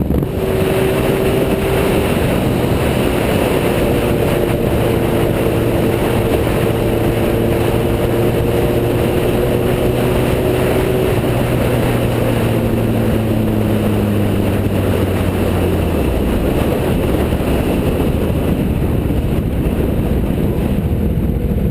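Sport motorcycle engine running at a steady speed under a heavy rush of wind and road noise, its pitch easing slowly down through the middle of the clip as the bike slows.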